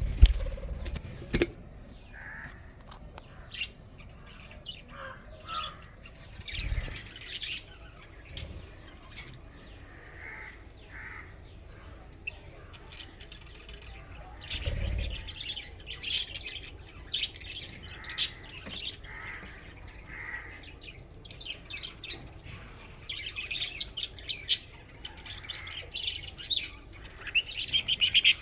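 Budgerigars in a colony aviary chirping and chattering, with many short calls scattered throughout. A few dull low thumps break in, the loudest right at the start.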